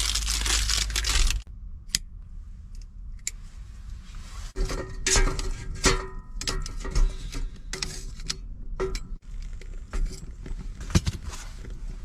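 A rushing noise for about the first second and a half, then metal and crockery clinking, knocking and rattling as cookware and stove parts are handled, with a few short ringing clinks.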